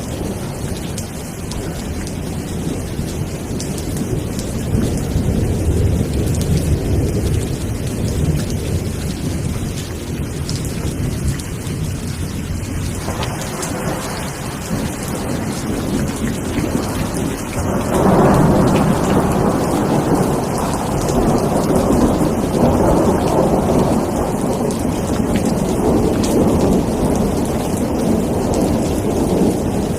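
Steady rain with rolling low thunder rumbling underneath. The rumble swells louder a little past halfway through.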